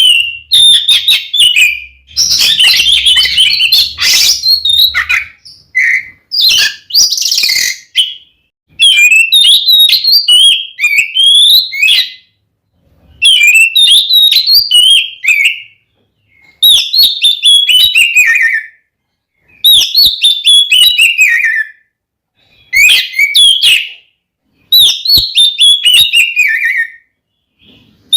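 Oriental magpie-robin (kacer) singing loudly in its full, aggressive fighting-style song, in repeated phrases of a couple of seconds separated by short pauses. The later phrases are quick runs of notes falling in pitch, mixed with sharp clicks.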